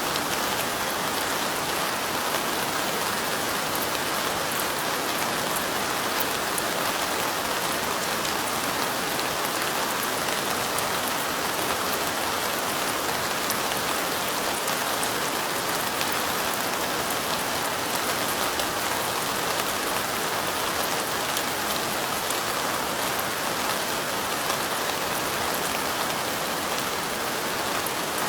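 Steady light rain falling, an even patter of drops on surfaces.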